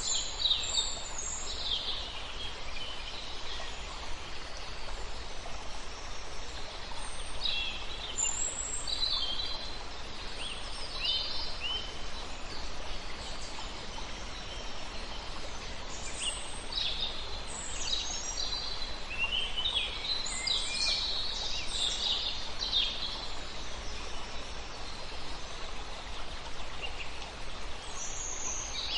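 Several songbirds singing short, high phrases in clusters with quieter gaps, over a steady rush of flowing river water.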